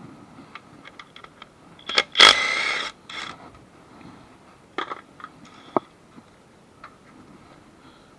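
Hand work on a car in a garage: scattered metallic clicks and knocks, with one loud, harsh burst of noise lasting under a second about two seconds in, and a shorter one just after.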